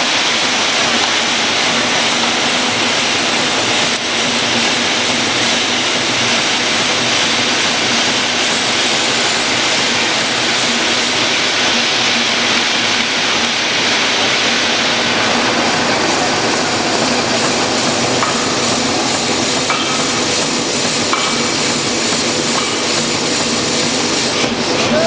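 Steady loud industrial noise of a forging shop: an unbroken hiss-like din of furnace and machinery, with no distinct hammer blows standing out.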